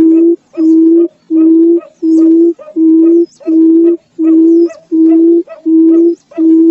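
Barred buttonquail calling: a long, even series of low hooting notes at one steady pitch, each about half a second long, about one and a half a second. Faint high chirps of other small birds sound over it.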